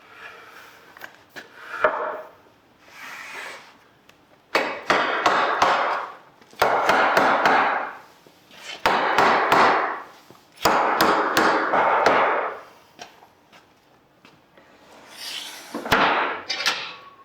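A hand tool worked over wood in repeated rasping strokes, each about a second and a half long and starting sharply, roughly every two seconds.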